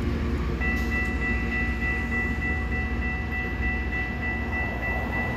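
Loram rail grinding train running with a steady low rumble. About half a second in, a steady high-pitched tone joins it and holds to the end.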